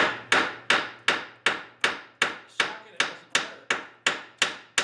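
A hand hammer striking metal in an even rhythm, about three blows a second, each ringing briefly as it fades: hammering on a broken, rusted bolt in a 1972 VW Beetle's rear torque rod housing to break its rust bond.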